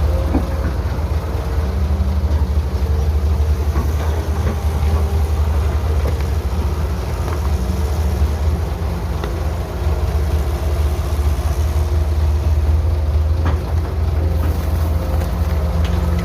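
Heavy construction machine's diesel engine running steadily, with a few faint knocks over it.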